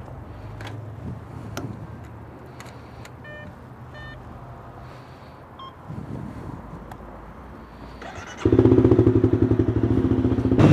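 Motorcycle engine idling low and steady, with a few clicks and two short strings of electronic beeps, then about eight seconds in the engine opens up loudly with a fast, even pulse as the bike pulls away.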